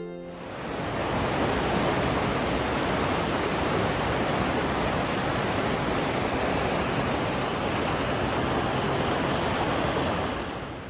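Whitewater of the O&W Rapid on the Big South Fork river rushing with a steady, loud roar. It fades in about a second in and drops away near the end.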